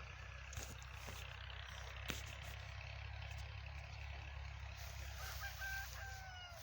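Steady low rumble under a faint outdoor hiss. Near the end, a bird gives a harsh call in two parts, the second falling slightly in pitch.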